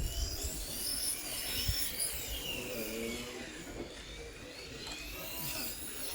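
Radio-controlled racing motorcycles running on the track, several high motor whines rising and falling in pitch as the bikes accelerate and slow through the corners.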